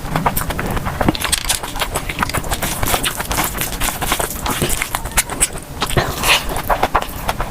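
Close-miked chewing of chicken biryani: a dense, irregular run of wet mouth clicks and smacks.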